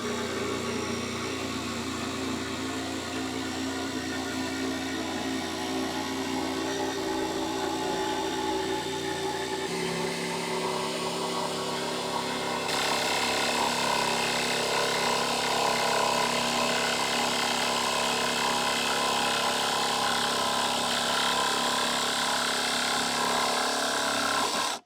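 Electric jigsaw running steadily while cutting the sink opening in a countertop, fed slowly without forcing. Its note shifts about ten seconds in and it gets louder a few seconds later, then stops abruptly at the end.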